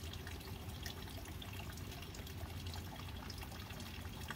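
Steady rain falling, with scattered drips.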